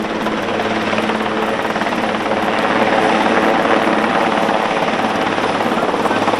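Helicopter hovering close overhead: a loud, steady thudding chop of the rotor blades with a constant engine hum underneath.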